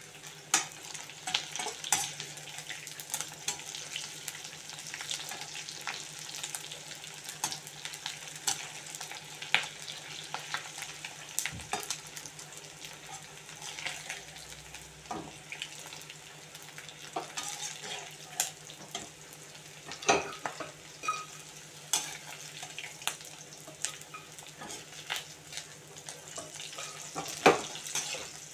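Chicken pieces sizzling in hot oil in a wok, with a perforated metal skimmer scraping and clinking against the pan as they are turned; the sharpest clink comes near the end.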